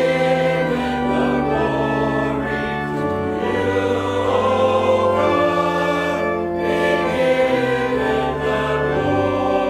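Church choir singing an offertory anthem with organ accompaniment, sustained chords with held low notes beneath the voices.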